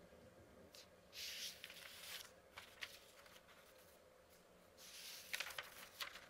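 Paper pages being turned, twice: a rustle about a second in and another about five seconds in, each with crisp crackles of paper.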